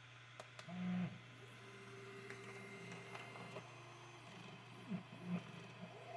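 Stepper motors of a budget 3D printer kit whining as they drive its axes, in short steady tones at different pitches that start and stop in turn, over a steady low hum.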